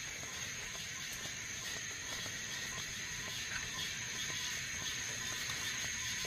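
Steady, high-pitched chorus of insects droning without a break, with faint scattered ticks.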